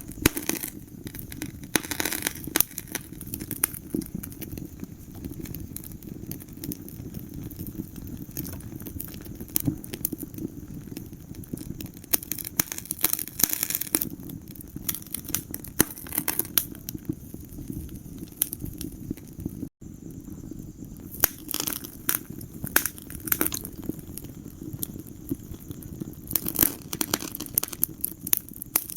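Wood fire crackling in a fireplace: irregular sharp pops and snaps over a steady low rumble of the flames. The sound drops out for an instant about twenty seconds in.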